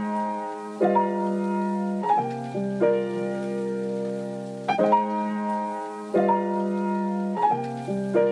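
Music: a solo piano playing sustained chords, a new chord struck every second or two, in a vocal-free break of a sped-up pop song.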